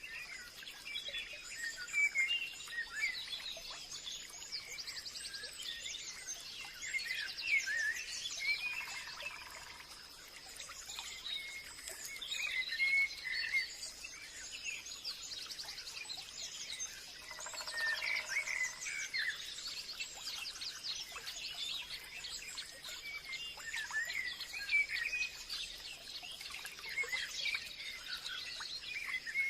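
Forest ambience: many birds chirping and calling throughout, with a steady high thin tone underneath.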